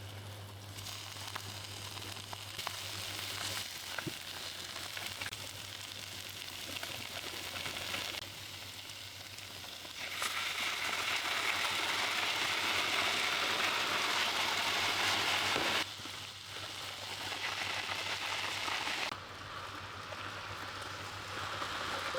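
Steady hissing that changes level abruptly several times and is loudest in the middle stretch.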